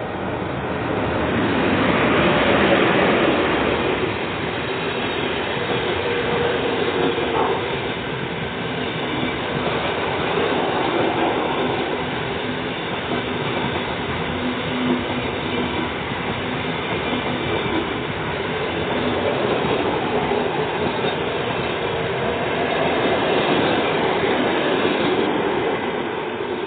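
A passenger train hauled by an EP1M electric locomotive rolling past. It is loudest about two to three seconds in as the locomotive goes by, then the carriages follow with a steady noise of wheels on rails, swelling again near the end.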